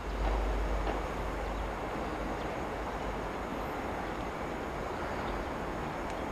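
A train running on the tracks out of view: a steady rumble with a deep low hum, strongest in the first second or so and easing after.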